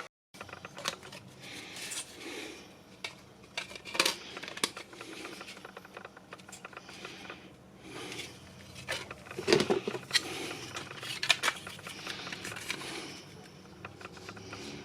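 Irregular clicks, taps and scrapes of small tools and parts being handled on a workbench, with a faint steady hum underneath.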